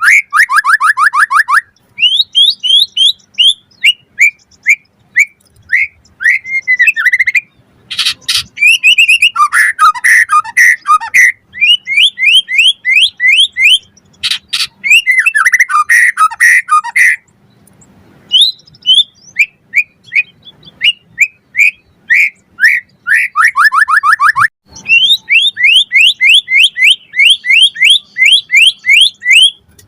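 White-rumped shama singing a loud, varied song: fast runs of rising whistled notes and rapid trills, broken by a few short pauses.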